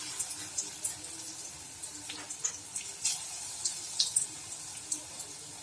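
Batter-coated chicken strips deep-frying in hot oil: a steady sizzle with scattered sharp crackles and pops.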